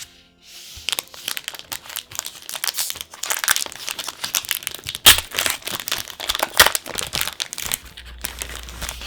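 Crinkly packaging from a trading-card box being torn open and crumpled by hand: a dense run of crackles and rustles, loudest about five seconds in and again a little later.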